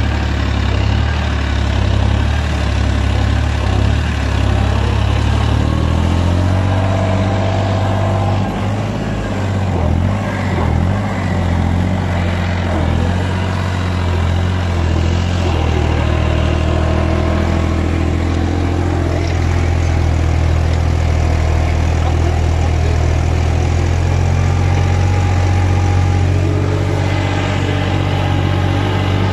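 Tractor diesel engine running hard. Its note wavers and shifts between about six and sixteen seconds in, then settles to a steady drone.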